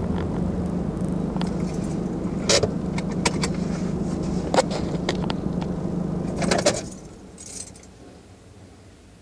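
Car engine idling with a steady low hum while keys jangle a few times. Just before seven seconds in, the keys rattle again and the engine is switched off, leaving only faint rustling.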